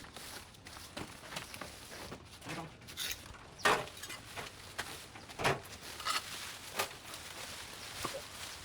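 Brush and vines being hacked and pulled by hand during overgrowth clearing: irregular rustling with a few sharper cutting strikes, the loudest two about 3.5 and 5.5 seconds in.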